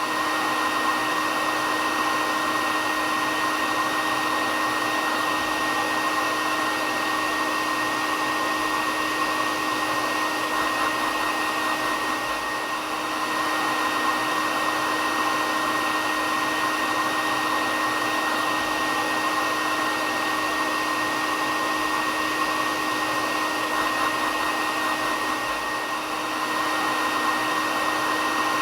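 Electric hair dryer running continuously: a steady rushing hiss of blown air with a constant motor whine, dipping slightly in level twice.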